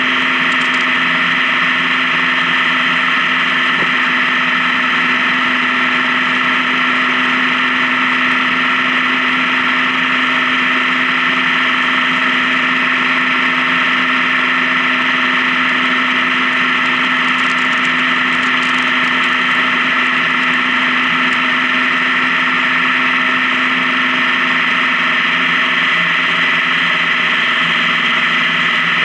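Honda Gold Wing touring motorcycle cruising at a steady highway speed: the engine hums evenly under a constant rushing noise of wind and road.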